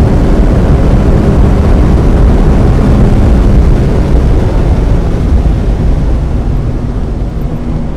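1995 Mazda Miata's 1.8-litre four-cylinder engine running hard on track under a steady rush of wet-road and wind noise, getting somewhat quieter over the last few seconds.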